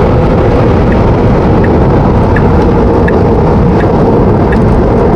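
Loud, steady wind and road noise inside a Tesla Model 3's cabin at highway speed, a hurricane-like rush from air leaking past the door seals. Faint ticks recur about every three quarters of a second under the rush.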